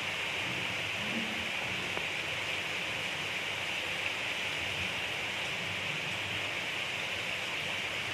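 Gentle rain falling steadily, an even hiss with a faint low patter of drops.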